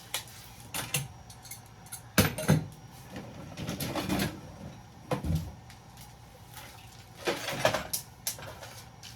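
Scattered knocks and clatter of metal and plastic breaker-box scrap being handled, with a longer scraping rustle about four seconds in.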